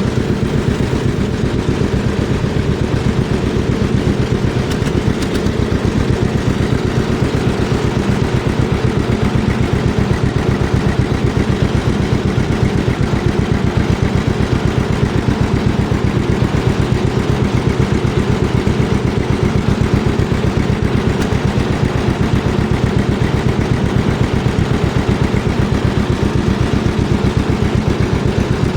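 Vintage farm tractor engine running steadily at a constant speed, with an even, rapid beat of exhaust pulses.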